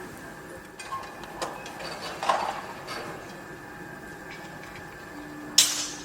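Active construction site: a steady machinery hum with scattered metal clanks and knocks, and one loud, short, harsh burst near the end.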